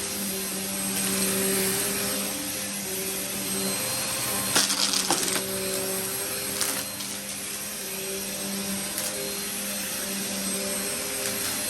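Vacuum cleaner running steadily with a motor hum and a rushing air hiss. A brief rattle of sharp clicks comes about five seconds in.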